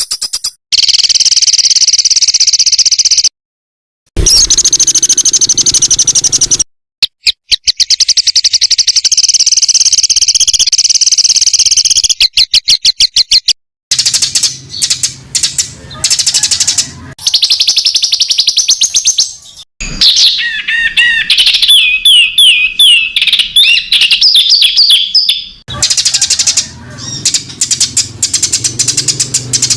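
Songbird masteran recording, several bird-song clips edited back to back. Long runs of very fast, rattling repeated notes (the 'tembakan' phrases used to tutor competition birds) are broken by abrupt cuts. Around two-thirds through comes a run of quick wavering, falling whistled notes.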